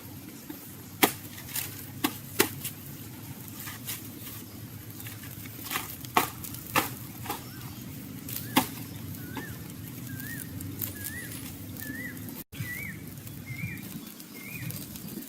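A handful of sharp knocks in the first half, then a bird calling a short rising-and-falling chirp about twice a second, starting about nine seconds in, each call a little higher than the last.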